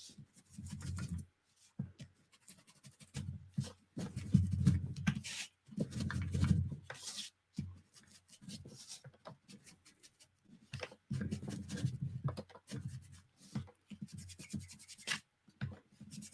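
Paper edges being inked by hand: short, irregular scrubbing strokes of an ink applicator rubbed against paper, with pauses and small handling taps between them.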